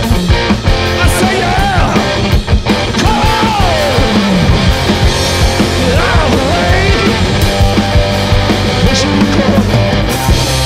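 A garage-punk rock band playing live: electric guitar and drum kit in a loud, driving punk-blues song, with lines that bend up and down in pitch.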